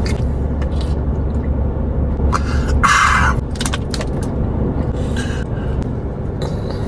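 Steady low rumble of the kind heard inside a car, with scattered small clicks and one short rustle about three seconds in.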